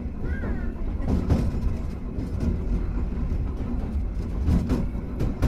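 Hankai Tramway car 351 running along the track, heard from inside the car: a steady low rumble of motors and wheels on rail, with a few sharp knocks from the wheels over rail joints.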